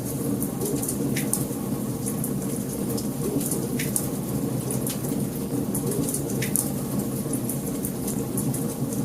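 Wood fire burning in a fireplace: a steady low rushing noise with frequent sharp crackles and pops.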